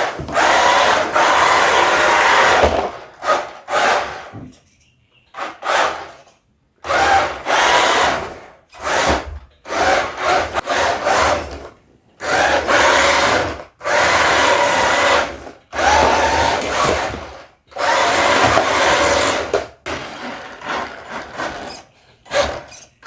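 Cheap RC drift truck's small electric motor and gears whirring in short throttle bursts, about a dozen stops and starts, as it is test-driven in stock all-wheel drive on hard, treadless drift tyres.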